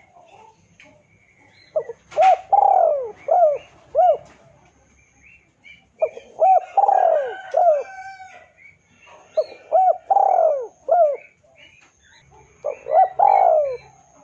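Spotted dove (tekukur) cooing: four phrases a few seconds apart, each a run of short arched coos with one longer, drawn-out coo in it. Faint chirps of other small birds sound between the phrases.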